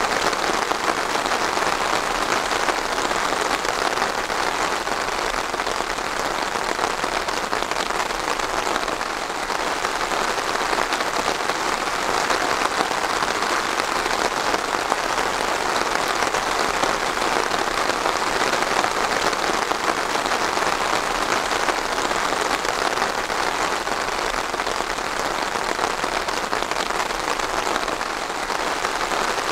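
Steady rain falling, a dense, even patter of drops on a hard surface.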